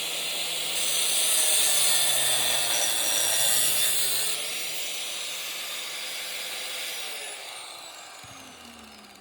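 Angle grinder with a cut-off disc cutting into metal, with a loud bright cutting hiss for the first four seconds or so. About seven seconds in, the grinder is switched off and its whine falls away as the disc spins down.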